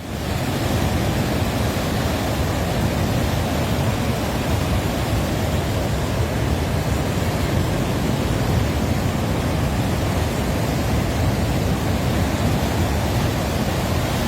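Fast-flowing flash-flood water rushing past as a steady, loud noise, heaviest in the low range.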